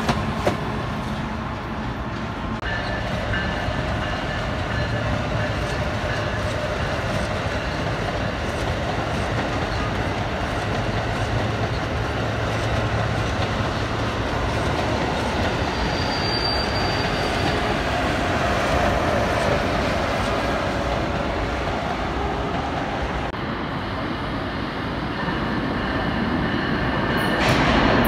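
A train running on rails: a steady rolling rumble with a few faint, steady high tones over it, growing louder near the end.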